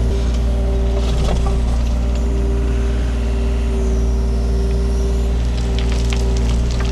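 Takeuchi TB230 mini excavator's diesel engine running steadily while digging. Scattered clicks and scrapes of the bucket working through rocky soil come about a second in and again near the end.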